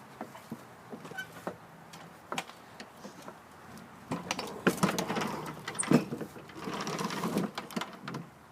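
Mechanical handling noise: scattered clicks and knocks, then two spells of rapid rattling about four and six and a half seconds in, with one loud knock between them.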